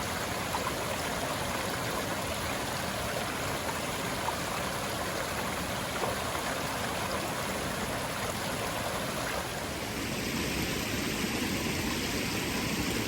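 Forest stream running steadily, an even rush of flowing water; the water sound changes slightly about ten seconds in.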